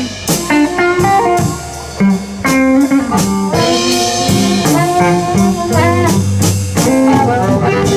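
Live electric blues band playing an instrumental fill between vocal lines: lead guitar notes over drums and bass.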